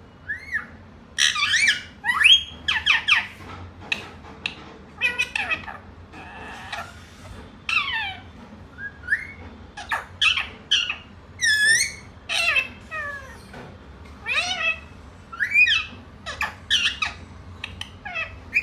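Pet green parrot calling and squawking: a string of short, sharp calls that bend up and down in pitch, one every second or so.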